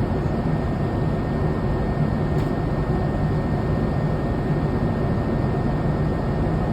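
Steady in-flight cabin noise of a Boeing 787 Dreamliner: a constant rumble of engines and rushing air, heard from inside the passenger cabin.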